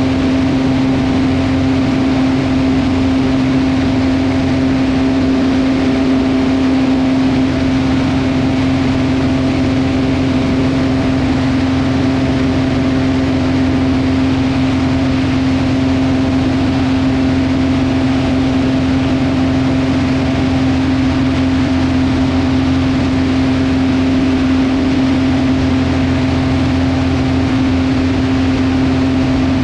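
Velocity V-Twin aircraft's two piston engines running steadily, a loud, even drone with a strong hum that holds one pitch throughout.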